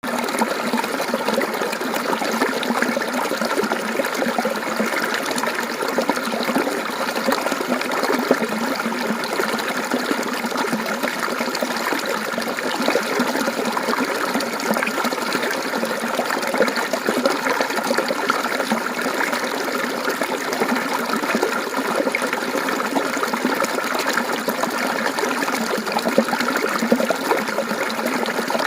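Mountain stream water flowing and babbling over stones, a steady splashing trickle without pause.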